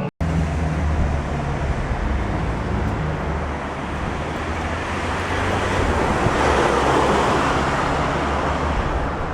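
Outdoor street noise: wind rumbling on the camera microphone over road traffic, with a swell about two-thirds of the way through.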